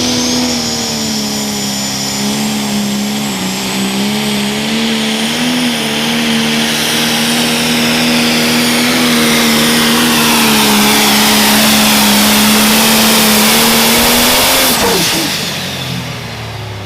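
Pro stock pulling tractor's turbocharged diesel engine held at high revs through a pull, with a high turbo whistle over it. About fifteen seconds in the revs fall sharply and the sound dies away.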